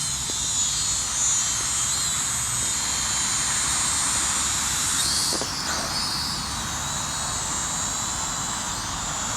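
Small toy quadcopter drone's propellers whining in flight, a steady high buzz that shifts in pitch for a moment about five seconds in.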